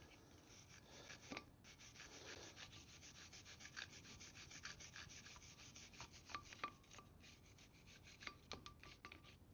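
A hand brush scrubbing a part clean in quick, short back-and-forth strokes, several a second, fairly faint.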